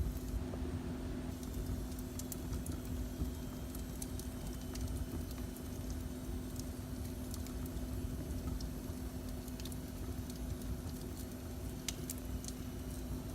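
Wood fire burning in a fireplace: a low steady rumble with scattered sharp crackles and pops, two of the loudest close together about twelve seconds in, over a constant low hum.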